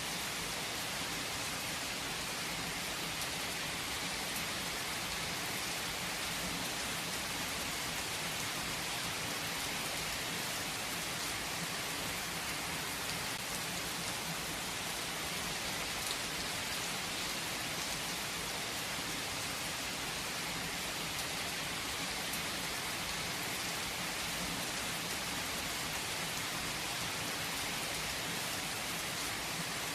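Steady rain falling, an even hiss of many drops on surfaces with no change or break.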